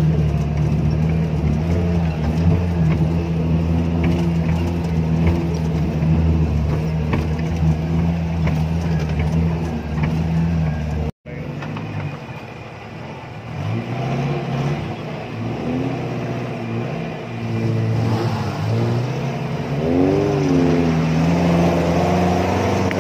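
Off-road 4x4's engine running steadily while driving a dirt track. After a brief cut-out about eleven seconds in, the engine note rises and falls repeatedly as it revs up and eases off.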